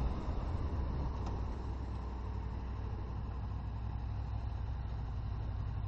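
Motorcycle engine idling steadily after slowing to a stop, the rush of riding wind easing off in the first second.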